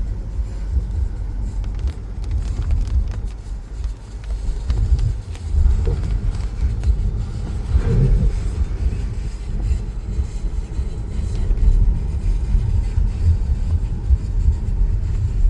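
Storm wind buffeting the microphone: a loud, gusty low rumble that swells and drops, with a stronger gust about eight seconds in.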